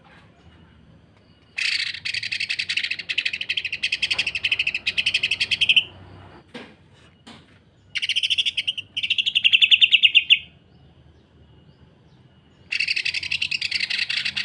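Cucak ijo (green leafbird) singing its harsh, dense 'sewing-machine' rattle: three long runs of very fast, high chattering notes, each a few seconds long, with short pauses between them.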